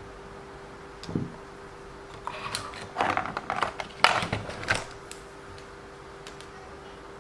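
Small hard parts and tools being handled at a workbench: a soft thump about a second in, then a burst of clicking and clattering from about two to five seconds in, loudest around four seconds, over a steady hum.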